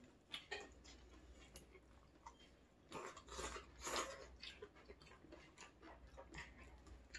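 Faint eating sounds: quiet chewing with scattered small clicks, busiest about three to four seconds in.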